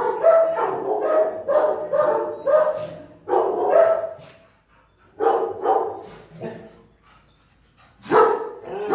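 Shelter dog barking in quick runs of barks, with short pauses between the runs.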